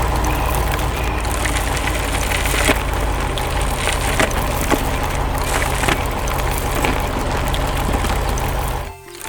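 Steady low machine rumble under dense crackling and snapping, like rock or wood breaking, which drops out briefly near the end.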